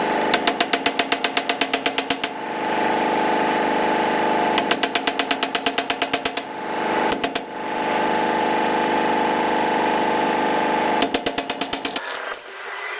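Fast hammering on metal, about seven blows a second in bursts of a second or two, over a steady machine hum that stops near the end.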